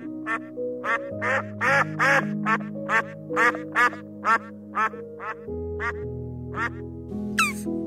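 Mallard duck quacking in a rapid series, about two or three quacks a second, over background music.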